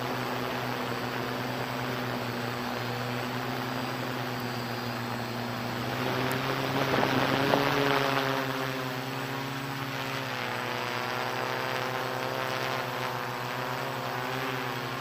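Hexacopter's electric motors and propellers humming steadily. The hum swells louder about seven seconds in, its pitch shifting, then settles again.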